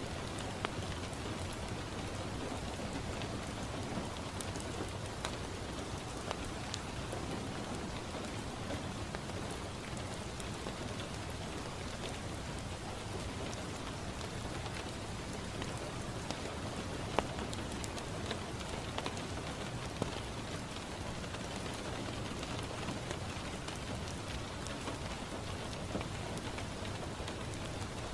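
Steady rain falling on a window glass, with a few sharp crackling pops from a wood fire scattered through it, the loudest about seventeen seconds in.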